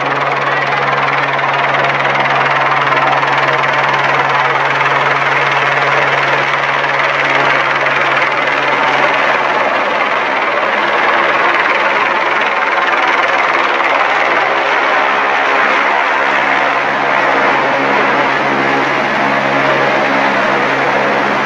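Helicopter engine and rotor running close by: a loud, steady noise over a low, even hum.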